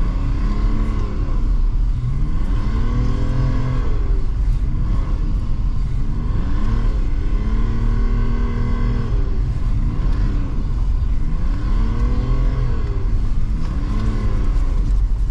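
Diesel engine of a BMW E39 heard from inside the cabin, revving up and falling back over and over, with one longer stretch held at steady revs midway, as the car is driven hard and slid through snowy bends.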